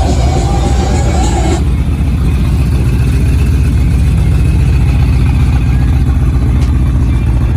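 A car engine running loudly and steadily with a deep, fast-pulsing exhaust note.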